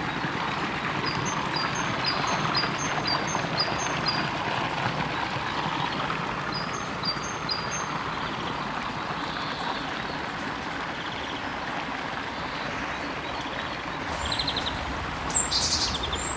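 Water of a small spring-fed stream running steadily. A bird repeats short high chirps over it, about two a second, in runs early on and around the middle, with more calls near the end.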